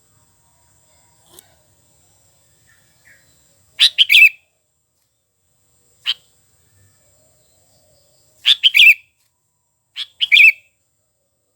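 Sooty-headed bulbul (kutilang) calling in short, loud phrases of a few quick notes, four times with quiet gaps of a second or two between them.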